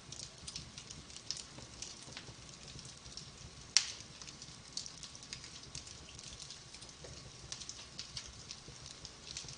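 Wood fire burning in a fireplace, crackling with frequent small pops and one sharp loud pop a little under four seconds in.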